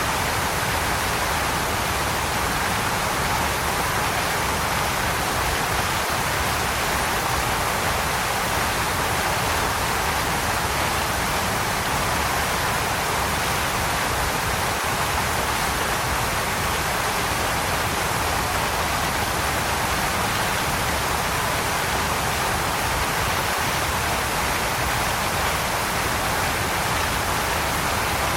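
Waterfall: a steady, unbroken rush of falling water, strongest in its middle and upper hiss with little deep rumble.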